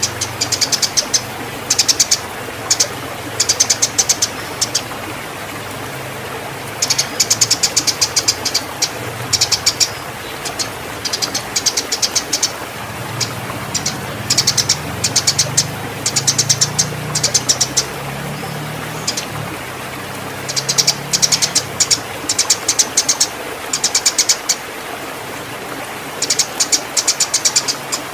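Eurasian tree sparrows giving the rapid, harsh chattering chirps of fighting birds in breeding condition. The chirps come in short dense bursts every second or two over a steady hiss.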